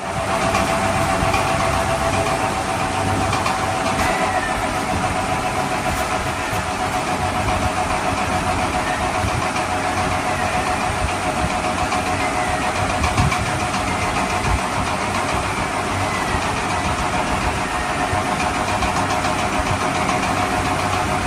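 Steady, even engine-like running sound with a constant hum, unbroken throughout.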